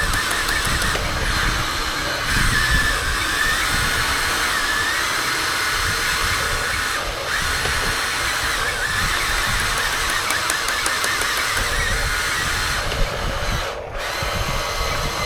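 Electric motors and gearboxes of 1:14-scale Huina RC construction models whining steadily, the pitch wavering as the controls are worked, over a rough low rumble. The whine drops out briefly about seven seconds in and again near the end.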